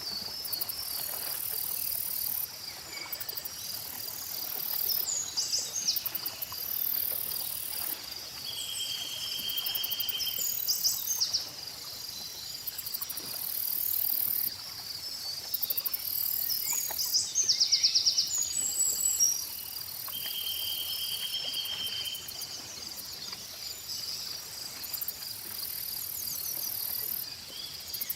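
A steady chorus of crickets and other insects chirping, with birds chirping now and then over it and a few held buzzing trills.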